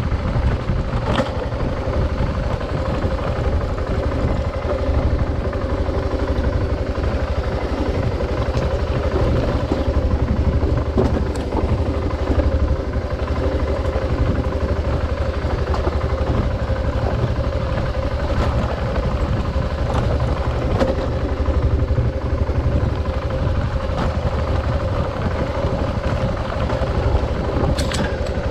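Adventure motorcycle engine running steadily while being ridden, with a constant hum and a few brief sharp ticks.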